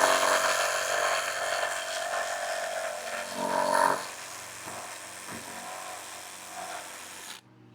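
Electric power saw cutting into the wood of a rotted fascia board, loudest at first and growing quieter, with a brief louder spell about three and a half seconds in; it cuts off abruptly near the end.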